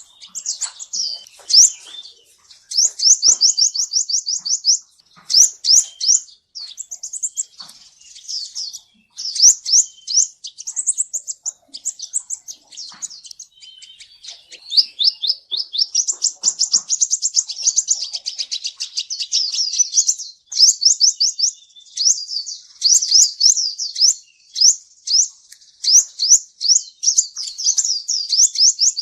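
Kolibri ninja sunbird singing: rapid, high-pitched trills of quick down-slurred notes, delivered in bursts of a second or more with short breaks between them.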